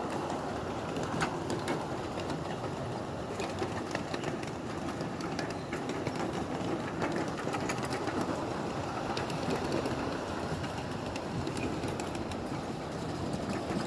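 Ride-on miniature live-steam train running along its track: a steady rumble of wheels on rail, with frequent small clicks and clatter.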